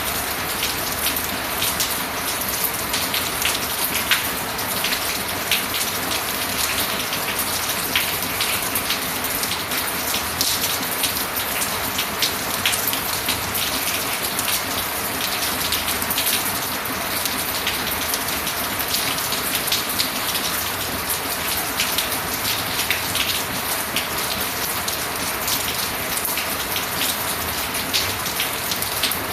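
Steady rain falling. Many individual drop hits sound through an even hiss that neither builds nor dies away.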